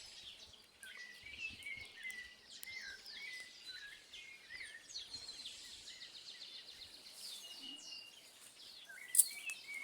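Several wild birds chirping and trilling, with short rising and falling calls and quick repeated notes throughout. A single sharp crack stands out about nine seconds in.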